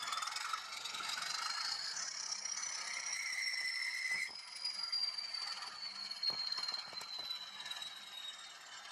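Bachmann class 20 model diesel locomotive running under DCC sound: the decoder's engine sound with a whine that rises for about two seconds and then slowly falls away as the engine settles. A steady tone stops suddenly about four seconds in, and several sharp clicks and rattles come from the model on the track.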